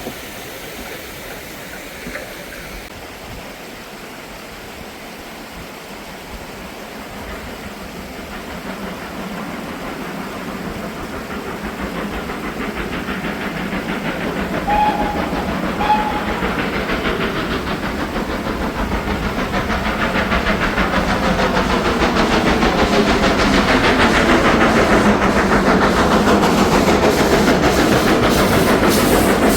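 Steam train approaching and growing steadily louder, with two short whistle toots about halfway through.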